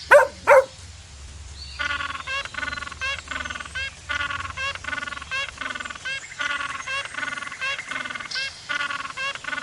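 A dog barks twice at the very start. From about two seconds in comes a steady, rhythmic run of repeated short animal calls, about two to three a second, from an animal that cannot be identified.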